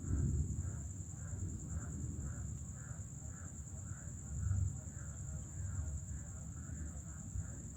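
Night chorus of a steady high insect trill and frogs calling in a regular pulse about twice a second, over a low rumble.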